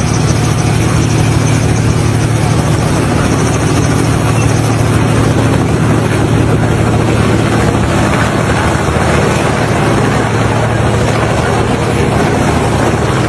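An engine running steadily, a loud low drone over a wash of noise, with no change in pace.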